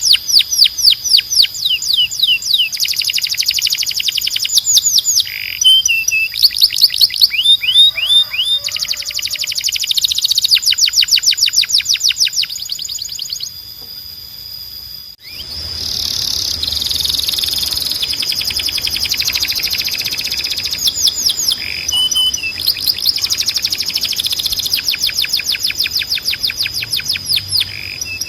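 Canary singing a fast, loud song of rapid trills, runs of quickly repeated high chirps with a few held whistled notes. About halfway through, the song drops quieter and cuts off abruptly, then carries on.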